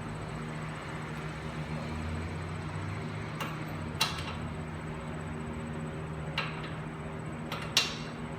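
Hand tools clicking against the hub bolts as they are tightened by hand with a socket wrench: a few sharp, separate clicks, the loudest about four seconds in and near the end, over a steady low hum.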